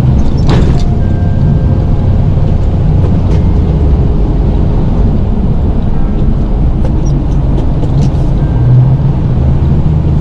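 Plow truck's engine running steadily while the truck pushes snow, a low drone that shifts in pitch a little, with music playing over it.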